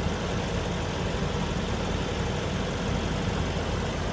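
A vehicle engine idling: a steady low hum with no change in speed.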